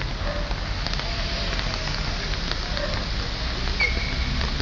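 Heavy rain falling steadily, with many small sharp drop impacts over a low rumble. A short high squeak sounds about four seconds in.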